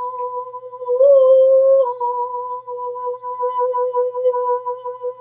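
A woman toning a long hummed note, nearly pure in tone. About a second in it steps slightly higher and drops back within a second, then it is held with a pulsing, wavering loudness.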